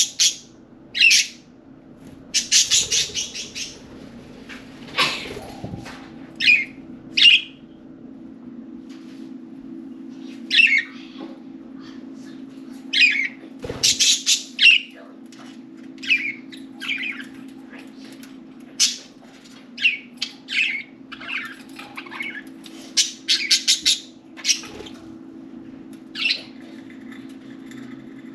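Several budgerigars chirping and squawking in short, scattered calls, over a steady low hum.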